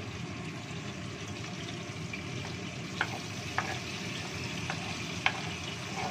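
Ground spice paste frying in hot oil in a wok, a steady sizzle, with a few sharp knocks from about three seconds in as the paste is scraped from a bowl into the pan.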